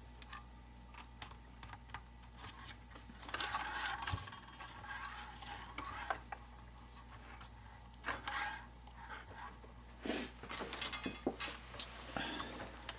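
Quiet small scrapes, rubs and light clicks of thin brass rod being threaded through the holes of a model boat's rail stanchions, in scattered patches with short pauses between.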